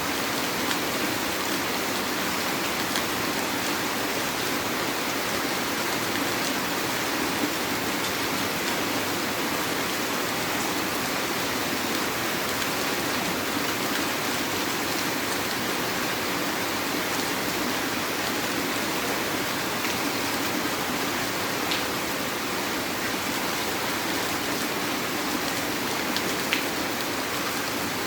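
Heavy rain falling steadily, a dense even hiss with a few scattered sharper drop hits.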